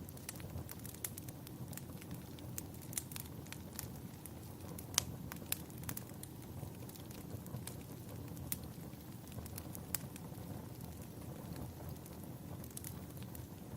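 Wood fire crackling in a fireplace: irregular sharp pops and snaps over a steady low rumble of burning, with the loudest pop about five seconds in.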